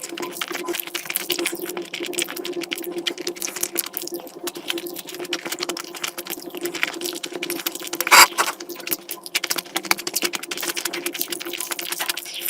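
Close-miked chewing and wet mouth sounds of someone eating, a dense run of rapid irregular clicks, with one louder burst about eight seconds in.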